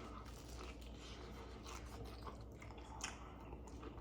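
A person chewing food quietly, with small crunches and clicks and one sharper click about three seconds in.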